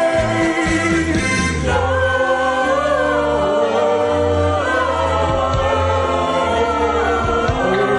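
Gospel choir singing with band accompaniment, sustained vocal lines over a steady bass.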